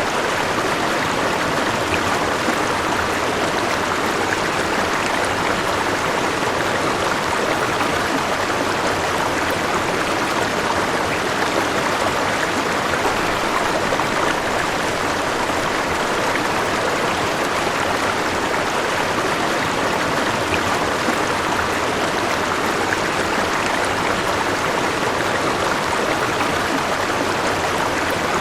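River water flowing over rocks: a steady, even rushing of water with no change in the flow.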